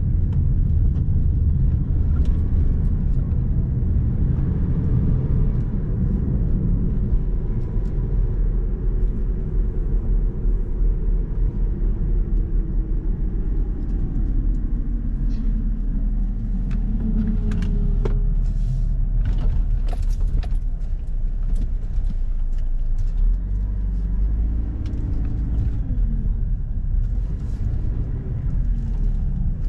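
Car driving, a steady rumble of engine and road noise, with a few clicks and knocks in the second half.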